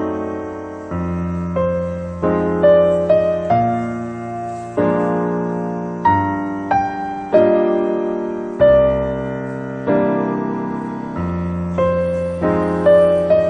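Background piano music: a slow, gentle melody of single notes and chords, each struck and then fading away.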